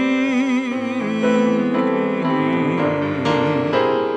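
Piano accompaniment playing a slow ballad between sung verses, with a held note wavering in vibrato through the first second.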